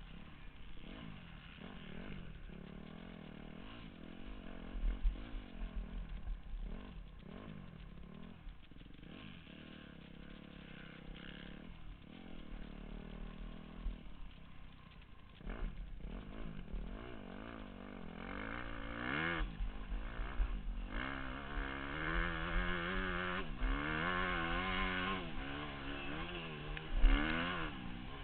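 Motocross bike engine on the track, revving up and falling back again and again as the throttle opens and closes, louder and with quicker swings in pitch over the second half. There is a sharp knock about a second before the end.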